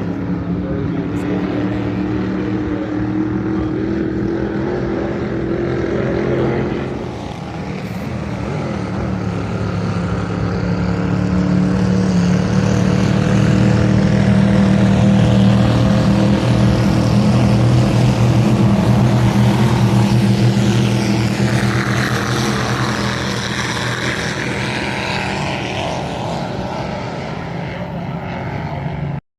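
Vintage racing speedboat engines running loud and steady on the river. The engine pitch climbs over the first few seconds, then the sound swells to a peak about halfway through and eases off again as the boats pass. It cuts off abruptly at the very end.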